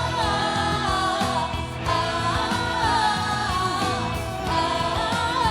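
Indonesian pop song: a sung melody over a full backing band, the singing held and gliding between words.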